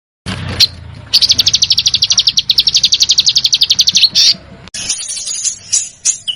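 A small songbird's besetan: a fast, tightly repeated trill of many notes a second held for about three seconds, then a short note. Near the end a different recording cuts in, with scattered chirps.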